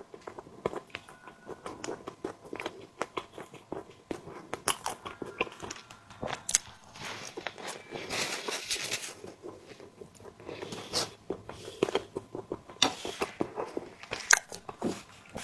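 Close-miked eating sounds of a tiger skin dessert being bitten and chewed: a dense run of irregular wet mouth clicks, with a longer, noisier stretch of chewing about halfway through.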